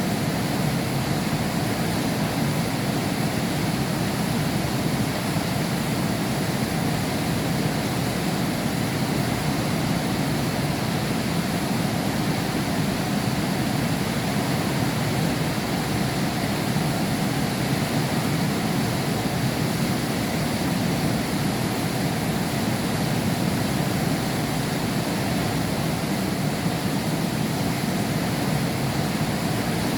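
Heavy rain falling steadily, heard from behind window glass: an even, unbroken rush, weighted toward the low end, with no thunder or separate drops standing out.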